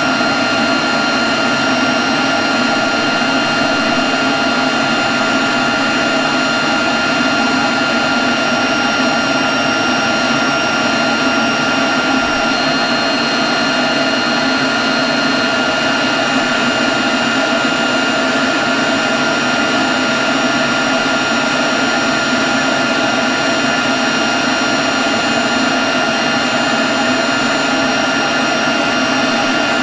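Leaf blower running steadily at constant speed: a rush of air with a steady whine over it, unchanging throughout.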